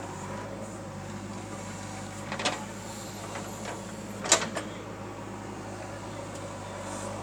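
Heavy diesel engine running steadily at a constant speed, with two sharp clanks: one about two and a half seconds in and a louder one a little after four seconds.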